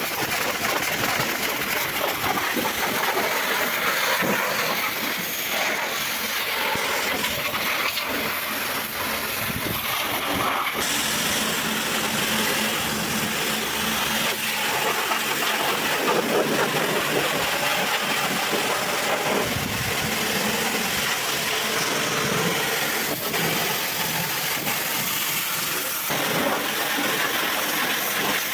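High-pressure water spray hissing steadily against a truck engine as it is washed, with a slight change in the hiss about eleven seconds in.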